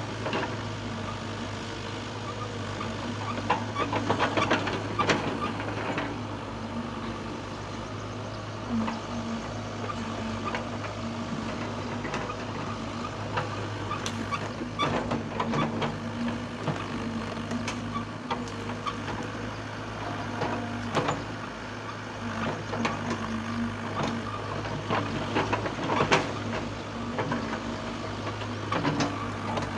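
Heavy machine engine running steadily at a constant low hum, with scattered clanks and knocks.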